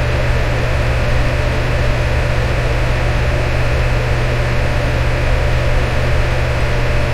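Electric fan running steadily: an even rushing air noise over a low motor hum.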